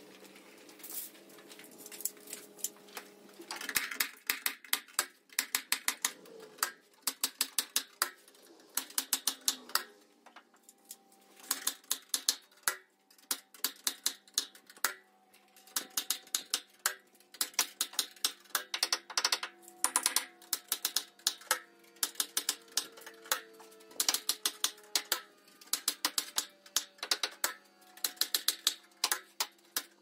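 Pneumatic nailer driving nails into metal joist connectors, in quick runs of sharp clacks with short pauses between runs, over a steady low hum.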